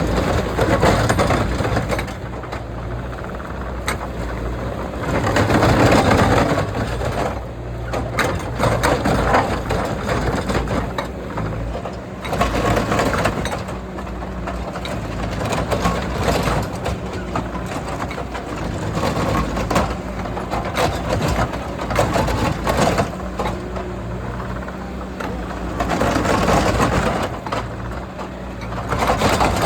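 Skid steer's engine running steadily under load, with loud crunching and cracking that swells and fades every few seconds as material is worked.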